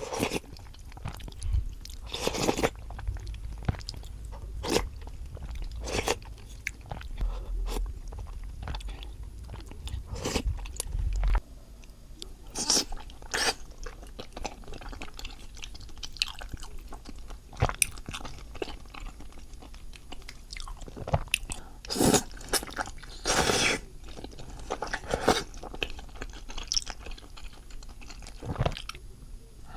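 A person eating close to the microphone: irregular chewing, biting and wet mouth clicks from a braised chicken and beef-intestine stew with soft tofu. A low hum underneath stops about a third of the way in.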